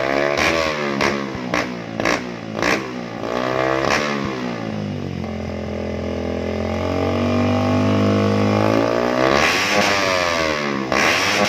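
Motorcycle with a custom-built exhaust, its engine pitch climbing in short runs broken by sudden drops, then held steady for a few seconds before falling and climbing again.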